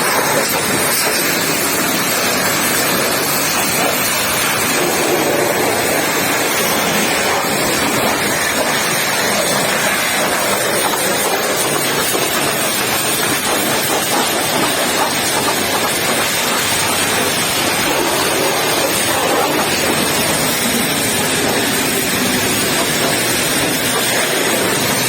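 Pressure washer spraying water onto a muddy truck, a steady loud hiss of water jet that does not let up.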